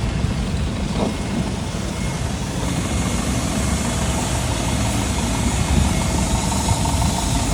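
Jet airliner engines running, a loud steady noise with a deep rumble and a faint rising whine about a second in.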